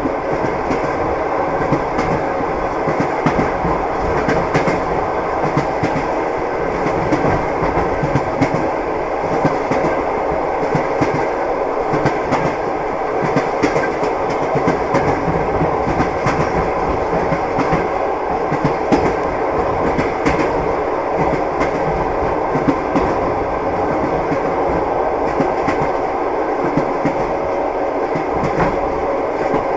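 Train wheels knocking over the rail joints: a steady running rumble of a railway carriage with frequent clickety-clack knocks throughout.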